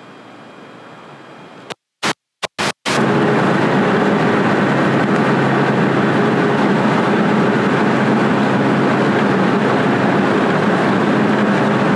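Car driving on the freeway: steady loud road and engine noise with a low hum, starting about three seconds in after a few abrupt cut-outs of the recording.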